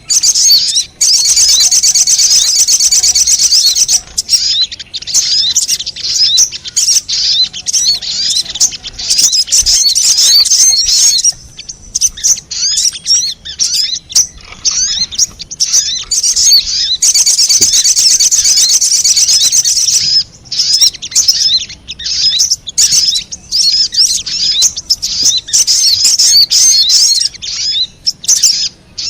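Little spiderhunter (sogon) calls played as a lure: rapid, high-pitched chattering notes in long dense runs, broken by short pauses.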